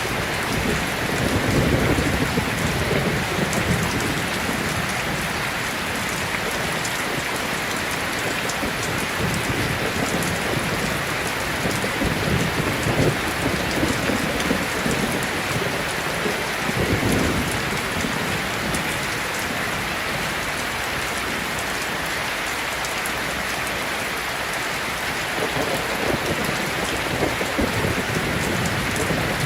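Heavy rain pouring steadily, with low rumbles of thunder rolling in and out, strongest about a second or two in and again around halfway.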